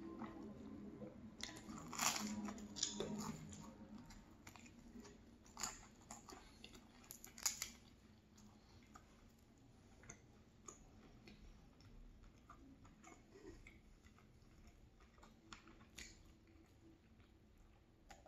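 Close-up chewing of a flaky blueberry pastry: crisp crackles of the pastry crust, thickest in the first few seconds with two more sharp crunches a little later, then quieter, softer chewing.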